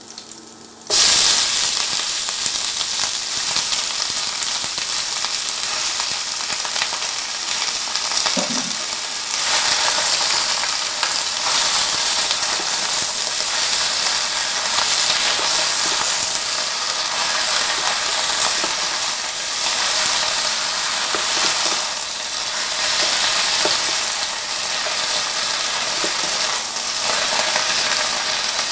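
Leafy greens dropped into hot oil with garlic in a nonstick pan, hissing loudly all at once about a second in. They then sizzle steadily while being stir-fried and turned with a wooden spatula.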